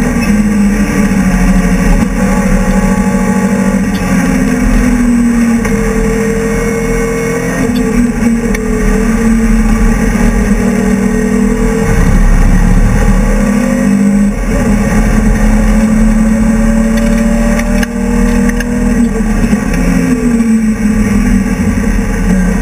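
BMW E30 race car's engine running hard, heard from inside the cabin, its pitch dropping and climbing again several times as it changes gear through the race.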